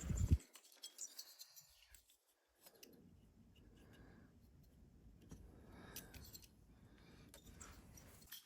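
A short knock, then scattered light clicks and scraping of chainsaw parts being handled during reassembly.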